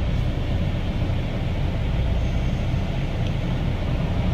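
A vehicle running, a steady low rumble of engine and road noise.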